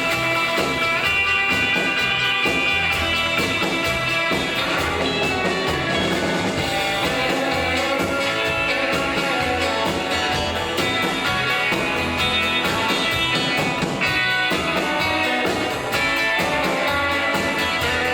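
A live rockabilly band plays an instrumental solo break in a slow number: a lead guitar carries the melody over bass and a steady drum beat.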